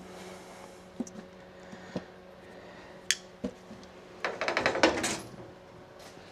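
Metal hand tools clinking a few times, then a ratchet wrench clicking rapidly for about a second as a socket is turned.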